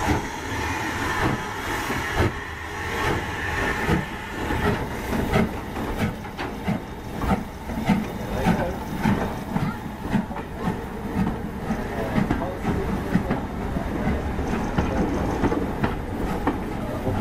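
LMS Stanier Class 5 4-6-0 steam train on the move, a steady rhythmic clatter of about two beats a second over a continuous rumble.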